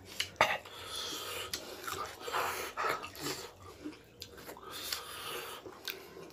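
People chewing and smacking their lips while eating rice and beef curry by hand, with short sharp clicks from mouths and fingers.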